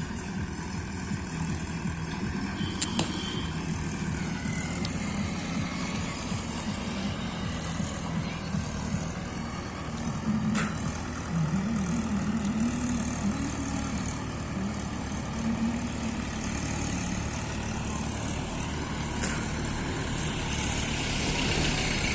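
Mahindra tractor's diesel engine running steadily, its engine speed rising and falling for a few seconds around the middle. A few sharp clicks stand out, the loudest about three seconds in.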